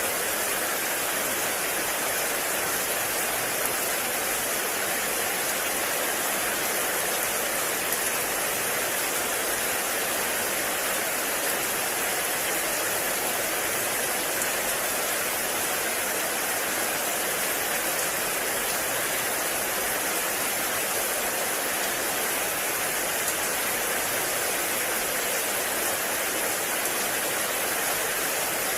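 Heavy rain falling steadily in a forest, a constant, even hiss of rain with no breaks.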